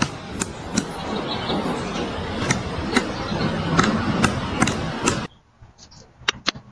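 Woodpecker pecking at wood: sharp single knocks at irregular intervals over a steady background hiss, then quieter after a cut near the end with a few fainter knocks.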